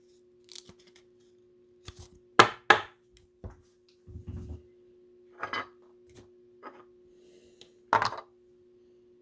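Trading cards being handled and set down on a table: a few sharp taps and clicks, the loudest two close together a few seconds in, with a brief rustle between them, over a faint steady hum.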